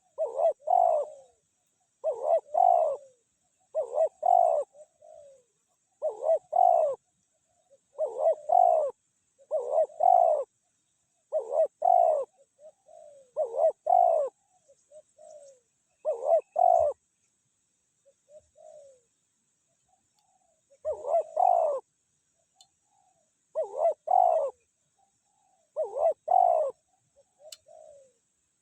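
Spotted dove cooing in short phrases of two or three notes, repeated about every two seconds, with a pause of a few seconds a little past the middle.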